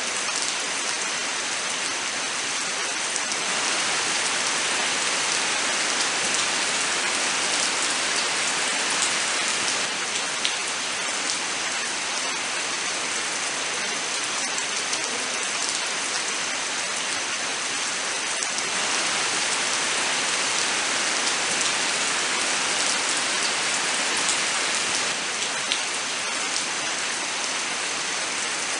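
Steady rain falling in a forest, a dense even hiss with scattered sharp drop ticks. It swells slightly louder a few times.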